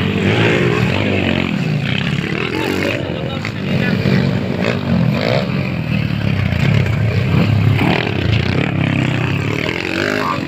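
Several motocross bikes racing, their engines revving up and down and overlapping.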